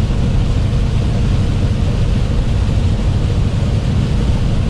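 Truck on the highway heard from inside the cab: a steady low engine and road rumble with tyres hissing on the rain-soaked road.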